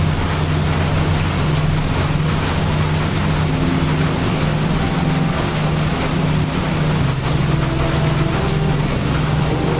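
Heavy rain falling in a steady, dense hiss over a deep, constant low rumble.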